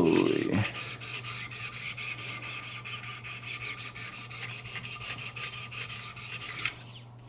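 Wicked Edge guided sharpener's 800-grit abrasives stroked over the steel edge of a Benchmade 725 Kodiak Skinner knife: an even, rasping scrape of about five strokes a second that stops abruptly near the end.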